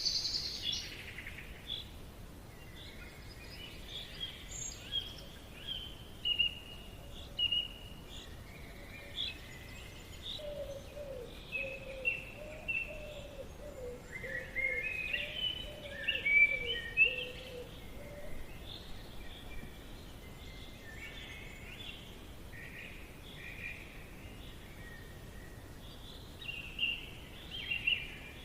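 Forest ambience: several birds chirping and calling in short, quick phrases over a steady background hiss, with a lower wavering bird call joining for several seconds midway.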